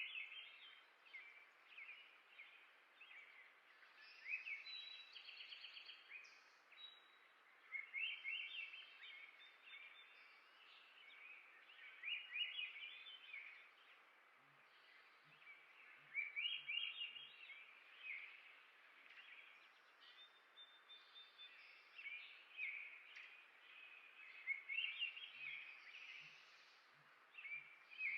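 A songbird singing short, rapid warbling phrases every few seconds over a steady faint outdoor hiss.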